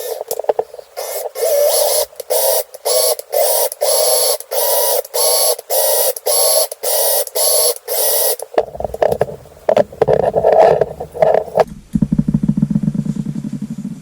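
A Suzuki GN250 valve being spun by a drill against its seat in the cylinder head to grind (lap) the seat clean of black carbon spots: a gritty grinding in short bursts about twice a second, turning rougher and lower later, then a steady low whirr near the end that stops sharply.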